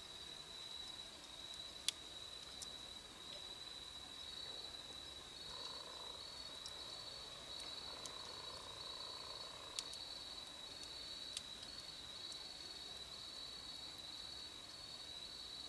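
Outdoor wood campfire giving a few sharp, isolated pops, the loudest about two seconds in, over a steady high insect trill. A second insect joins with a pulsing trill a third of the way in.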